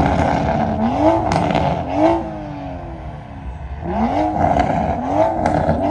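A car engine being revved in quick blips, in two sets of three rises and falls in pitch about a second apart with a short pause between sets, with a few sharp pops among them.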